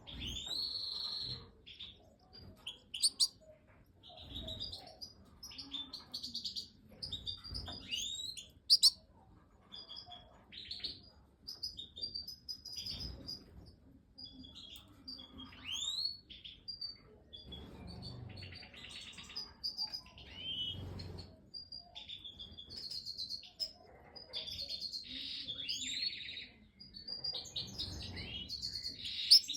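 European goldfinches (Major goldfinches) twittering: a busy stream of short chirps and quick rising whistled notes, with a few sharper, louder calls.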